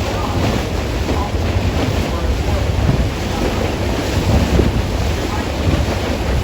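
Wind buffeting the microphone aboard a moving sightseeing cruise boat, over a steady low rumble of the boat and the water.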